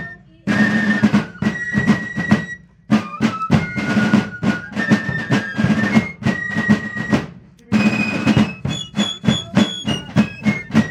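Fife and drum playing a tune: a high fife melody over rapid drum strokes, with short breaks between phrases about 3 and 7.5 seconds in.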